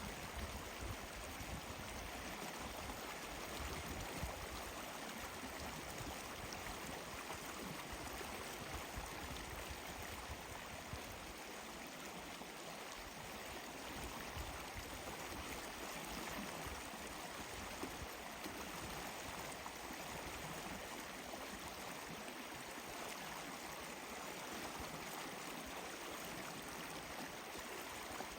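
Steady sound of flowing water, like a stream running over stones, with no change in level.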